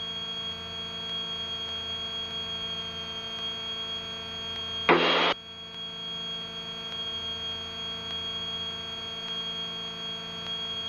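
Steady electrical hum with a high, even whine on the light twin's intercom audio feed, the engine noise itself held well down. About five seconds in, a loud half-second burst of static cuts in and stops sharply, like a radio or intercom channel briefly keyed open.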